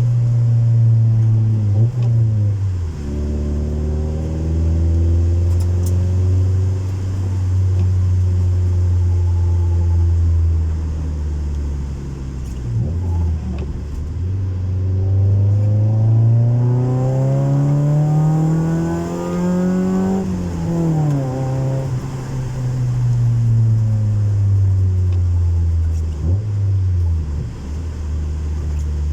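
Honda Civic 1.4i S four-cylinder engine through a custom exhaust, driving under load. The engine note holds steady, drops briefly at three gear changes and climbs steadily to high revs about two-thirds of the way through. It then falls sharply and eases back down.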